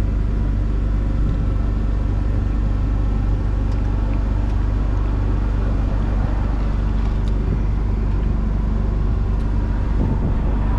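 A steady, unchanging low hum of an engine running at idle.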